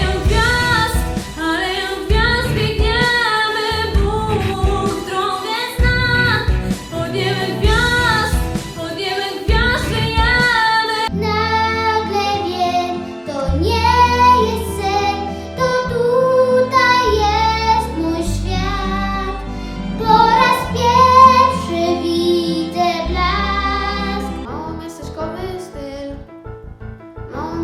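Young female voice singing a pop song over an instrumental backing track. About eleven seconds in the music changes abruptly to another song, with long held bass notes under the voice.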